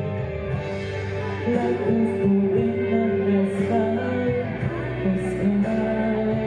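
Live band music: an instrumental passage of held, sustained notes near the end of a song.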